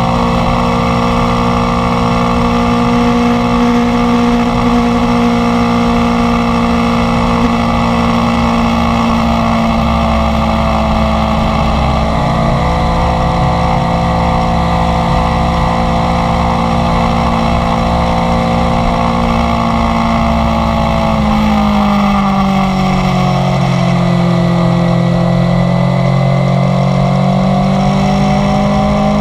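Inline-four sport motorcycle engine running at steady cruising revs under way, with a low rush of wind. About three quarters of the way through the revs drop, then climb back near the end.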